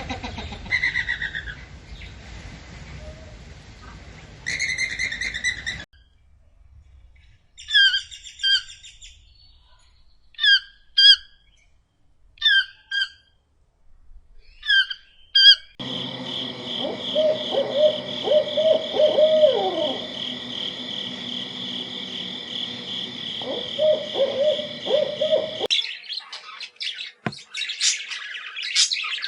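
A run of different bird calls, one recording after another. First come short calls in pairs, repeated about every second. Then comes a stretch of warbling notes over a steady high tone, and harsher calls near the end.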